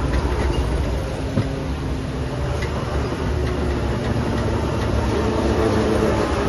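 Heavy diesel construction machinery running with a steady low rumble and a few faint knocks, growing a little louder near the end.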